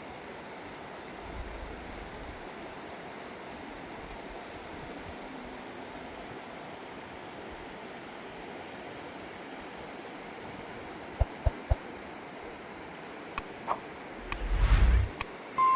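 Insects, likely crickets, chirping in a steady rhythm of about four high chirps a second over a steady rushing background noise. A few sharp knocks come near the end, followed by a brief loud whoosh.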